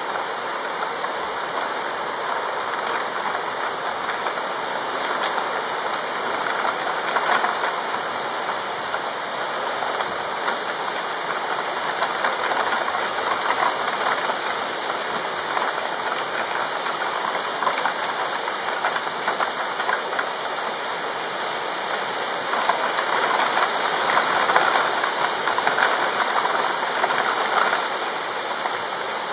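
Steady rain falling in a thunderstorm, a constant hiss of drops with no thunder heard; it swells a little about three quarters of the way through.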